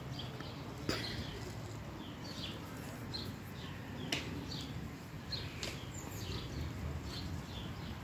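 Small birds chirping in the trees, a steady run of short, high, downward-sliding chirps a few times a second. Two sharp clicks stand out, about one second in and again about four seconds in.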